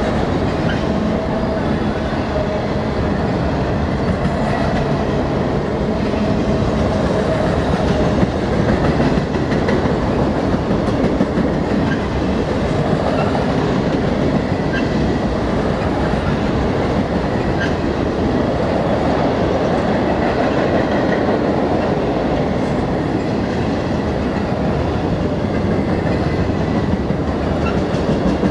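Enclosed multilevel autorack freight cars rolling past at speed: a steady rumble of steel wheels on the rails.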